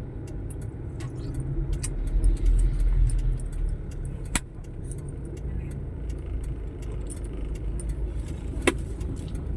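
Low, steady rumble of road traffic or a vehicle, swelling louder for a couple of seconds, with a scatter of light rattling clicks and two sharper clicks.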